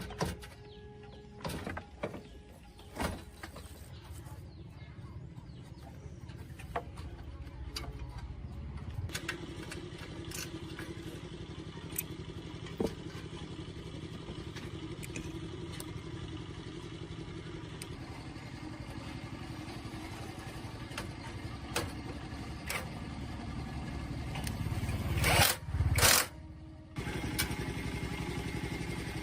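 A few knocks and clanks, then about nine seconds in an engine starts and runs steadily, the restored farm tractor's engine running again. Near the end it gets briefly much louder twice, then keeps running.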